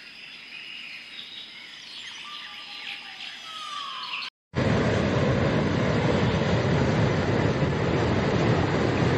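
Birds chirping over a steady high-pitched hum. After a brief cut about four seconds in, a much louder steady rushing noise takes over.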